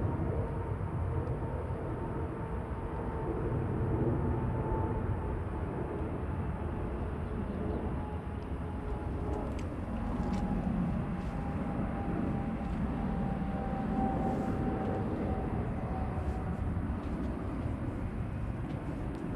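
Jet aircraft passing overhead: a steady low rumble with a faint whine that slowly falls in pitch.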